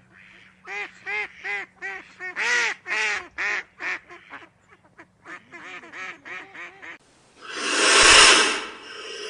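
An animal calling: a rapid run of short, arched calls rising and falling in pitch, then a long, loud breathy blow near the end.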